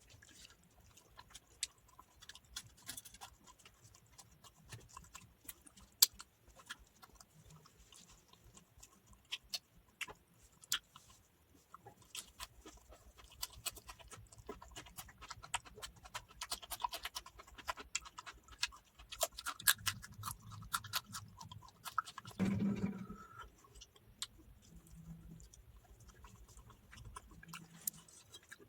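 Close-up eating sounds: a person chewing rice and chicken curry, with many wet mouth clicks and smacks. About two-thirds of the way through there is one brief, louder low sound from the eater.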